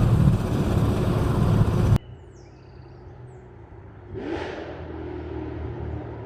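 Chevrolet Camaro ZL1's supercharged V8 exhaust: a loud, deep rumble for about two seconds that cuts off abruptly. After a quiet stretch, the engine comes back faintly about four seconds in, rising in pitch as it accelerates and draws closer.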